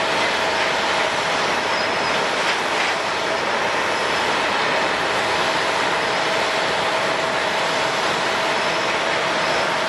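Jet airliner engines running steadily: a continuous loud rushing noise with a faint steady hum-tone through it.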